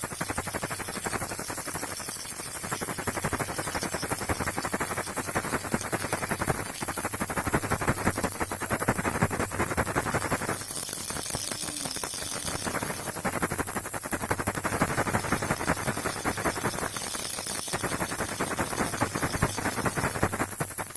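Baby rattle shaken continuously, a dense stream of rapid clicking that keeps going without a break.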